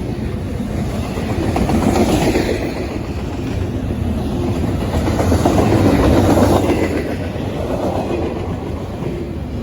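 A train passing: a loud, steady rolling rumble that swells twice.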